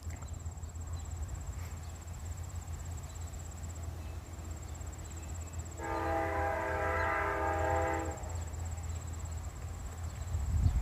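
Train horn sounding one long, steady multi-note blast of about two seconds, starting about six seconds in, over the steady low rumble of a train. A short low thump comes near the end.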